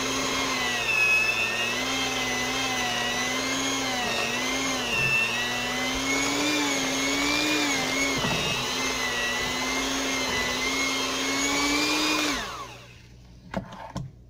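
Electric mixer running in a thick batter of cream cheese, peanut butter and brown sugar, its motor hum wavering up and down in pitch as the beaters meet the load. It winds down and stops about twelve seconds in, followed by a couple of short clicks.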